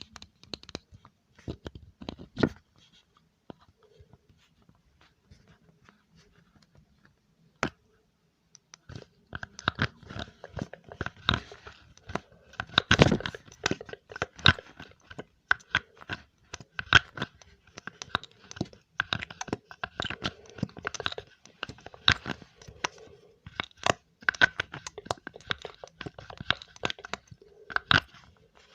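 Close-miked ASMR crunching: a few scattered crisp clicks at first, then from about eight seconds in a dense, fast run of sharp crunches and crackles.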